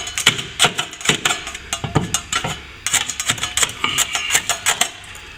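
Metal hand tool knocking and scraping at plaster in quick irregular strokes, chipping open a crack to prepare it for filling.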